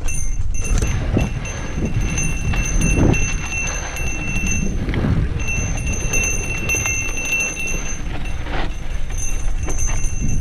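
Mountain bike riding over a dirt trail: tyres crunching and the bike rattling and knocking over bumps, with wind rumbling on the microphone. A thin high whine comes and goes over the top.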